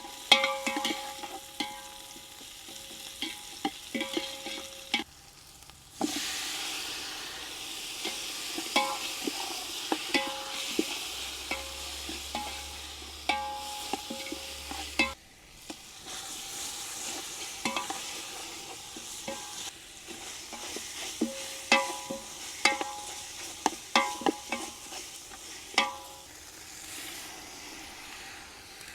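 Food frying and sizzling in hot oil in an earthen chatti while it is stirred, with frequent knocks and scrapes of the stirring utensil against the pot. The sizzling cuts off abruptly twice.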